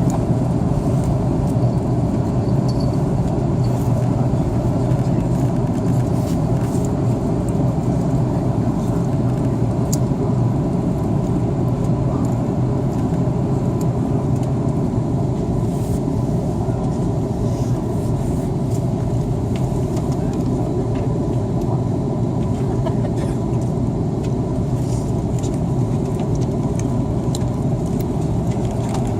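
Steady drone inside the cabin of an Airbus A330-300 in flight: engine and airflow noise, even and unbroken.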